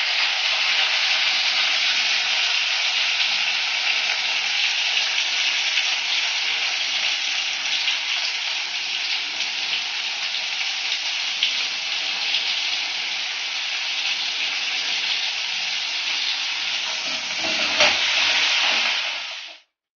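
Onions, green chillies and tomatoes sizzling steadily in hot oil in a steel kadai. Just before the end a slotted metal spoon knocks once against the pan while stirring, then the sound cuts off suddenly.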